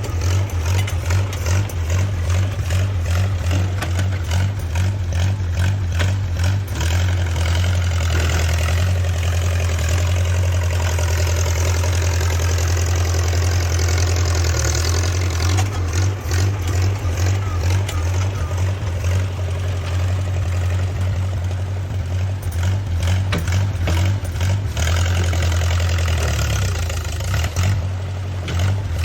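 Small 1950s gasoline crawler bulldozer's engine running steadily with a low drone while the machine works.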